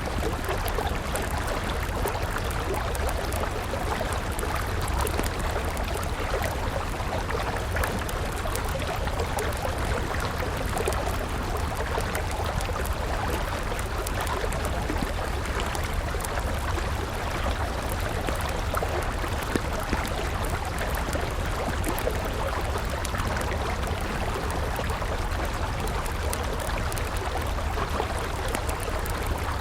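A river flowing steadily, with a burning wood campfire crackling over it in many small, irregular pops.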